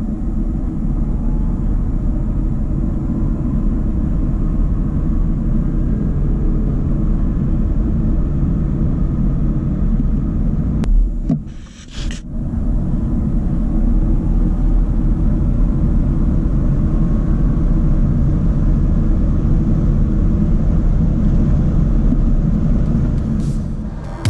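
Audi e-tron 55 quattro at speed under electric power: steady low road and tyre rumble with wind noise and a faint, slowly rising electric motor whine. The sound dips briefly about halfway through, then carries on.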